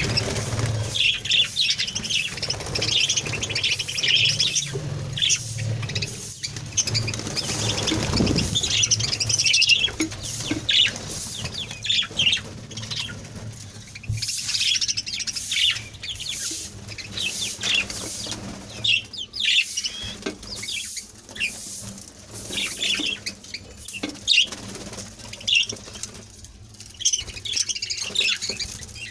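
A colony of budgerigars chirping and chattering continuously in many short high calls, with wing flutters from birds moving about. A low steady hum sounds under the birds for the first third or so, then stops.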